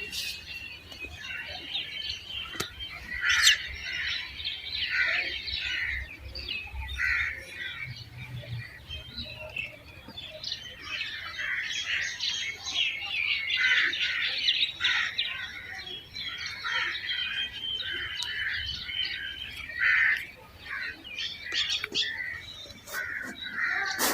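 Birds chirping and squawking, many short high calls overlapping without a break.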